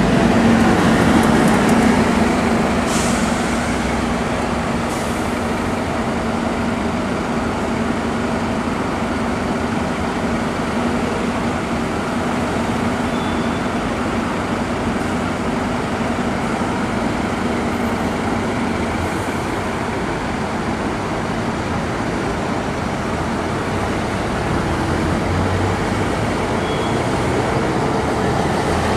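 Scania K310UD bus's diesel engine pulling away, loudest in the first couple of seconds, then easing into a steady drone mixed with road noise. Short hisses of air sound about 3 and 5 seconds in.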